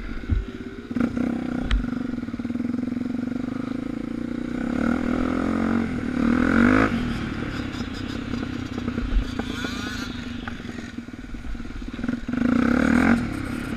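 Suzuki DR350's single-cylinder four-stroke engine running as the bike rides on, with the throttle opened up twice: around five to seven seconds in and again near the end. A few knocks and clatter in the first couple of seconds.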